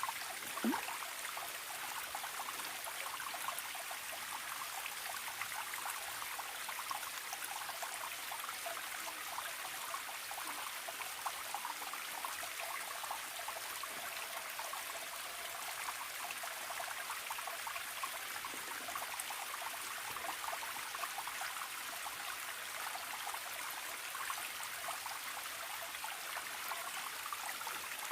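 Forest stream trickling and babbling steadily, with one short rising sound under a second in.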